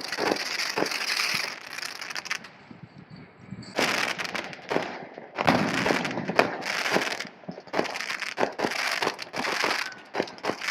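Fireworks crackling and popping in dense rapid bursts, with a short lull about two and a half seconds in before the crackling resumes louder.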